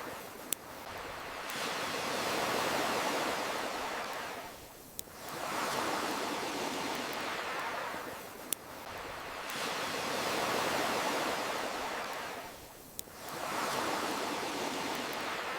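Ocean waves washing in and drawing back, the surf swelling and fading in a slow cycle of roughly four seconds. Four sharp single pops of a crackling campfire sound over it.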